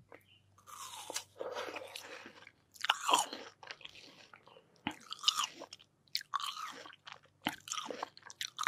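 Biting into and chewing crisp, juicy watermelon: irregular wet crunches, the loudest about three seconds in.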